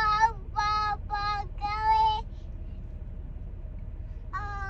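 A young child singing a run of short, steady, high-pitched notes, breaking off about two seconds in and starting again near the end, over a low steady rumble.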